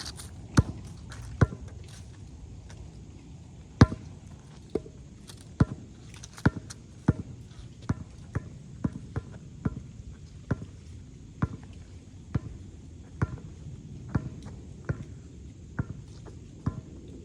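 Basketball being dribbled: a run of about twenty sharp bounces, a few loud ones spaced unevenly at first, then settling into a steady rhythm a little under one bounce a second.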